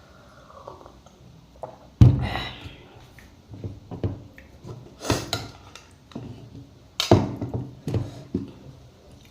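Close-miked eating sounds from a mukbang. Three loud, sudden mouth or utensil sounds come about 2, 5 and 7 seconds in, with softer chewing and smacking sounds between them.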